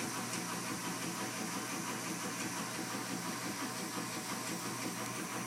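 Washing machine running with a steady hum and hiss.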